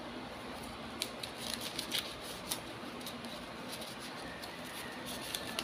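Scattered light clicks and ticks from unboxing: packaging and accessories being handled, over a steady background hiss.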